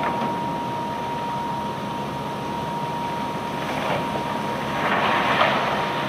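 Machinery on a cargo barge unloading cobblestones, running steadily with a thin constant whine, and a louder rush of noise about five seconds in.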